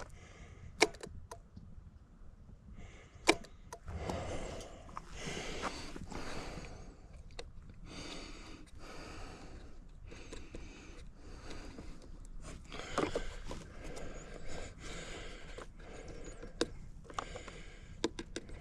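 A few sharp clicks spread out among soft rustling, breathy handling noise; no engine is running.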